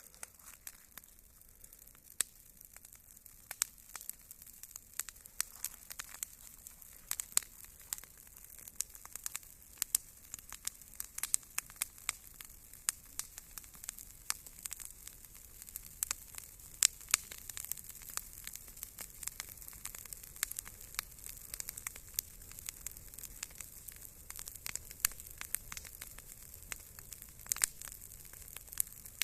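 Campfire crackling: a low steady hiss with frequent irregular sharp pops and snaps.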